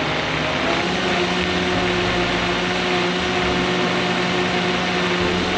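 Blender running steadily at one speed with a loud, even motor whine, mixing a thick frozen-vegetable and berry smoothie.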